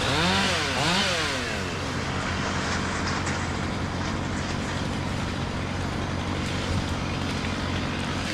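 Chainsaw engine revved up and down a couple of times in the first two seconds, then left running at a steady idle.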